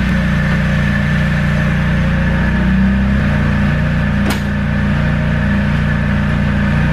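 Nissan SR20DET turbocharged four-cylinder engine idling steadily. The idle note steps down slightly about three seconds in, and a single sharp knock sounds about a second later.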